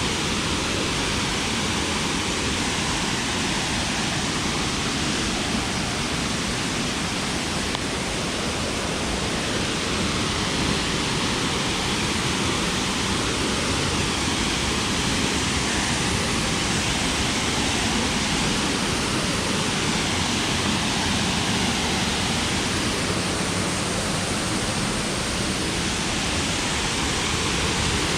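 Steady rush of water from a rainforest waterfall, a dense unbroken hiss with no let-up.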